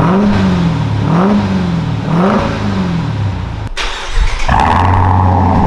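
Supercharged 6.2-litre Hemi V8 of a Dodge Durango SRT Hellcat revved in three quick blips, each rising then falling in pitch. After a break about four seconds in, it runs steadily at idle.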